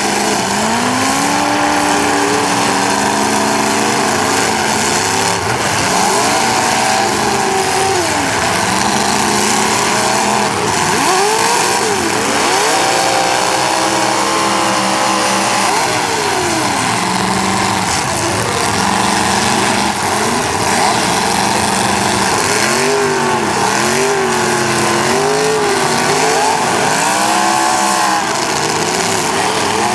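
Demolition derby cars' engines revving hard and dropping back, several at once, their pitches rising and falling throughout.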